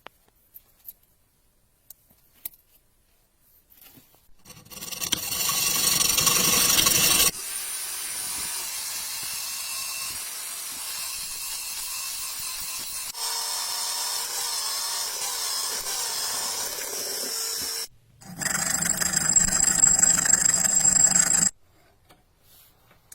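Abrasive power tool grinding the steel of a blade, in several stretches of steady rasping noise that start and stop abruptly.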